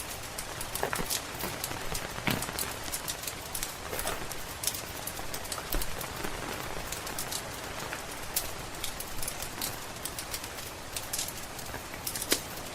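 Steady rain falling, mixed with the irregular sharp crackles and pops of a wood fire in a fireplace.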